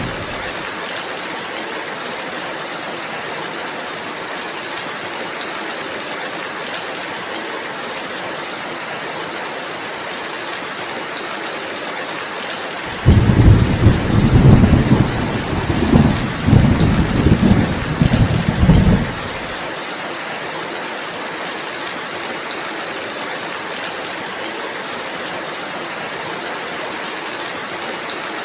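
Steady rainfall hiss. Roughly halfway through, a roll of thunder breaks in suddenly, rumbles loudly for about six seconds, then drops away and the rain goes on.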